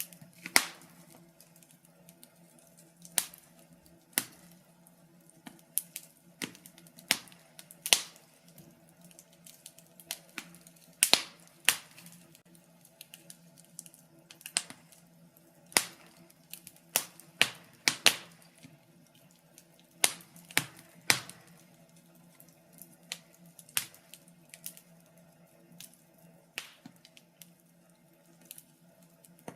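Wood fire in a fireplace crackling: irregular sharp pops and snaps, one or two a second and uneven in loudness, over a faint steady hum.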